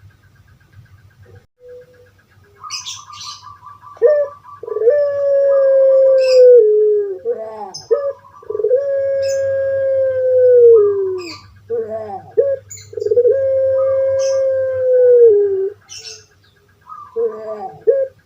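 Puter pelung dove (Streptopelia risoria) cooing: a short opening note, then a long drawn-out call held level and dropping at the end, three times, with a fourth beginning near the end. Small birds chirp briefly in the background.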